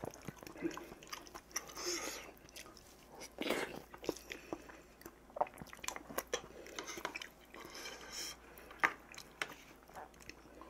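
Close-miked chewing and wet mouth sounds of a man eating rice, with sharp clicks of a metal spoon against stainless steel dishes.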